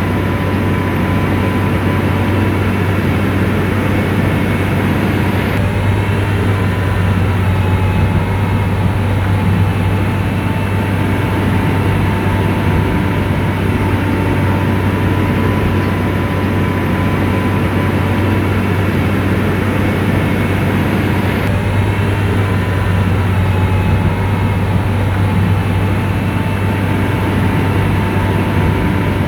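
Komatsu bulldozer's diesel engine running steadily while the machine works: a deep, constant drone with a faint whine on top.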